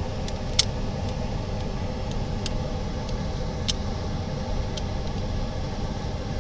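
Steady low machine hum of workshop equipment, with a few short, sharp clicks of small parts being handled, the loudest about half a second in.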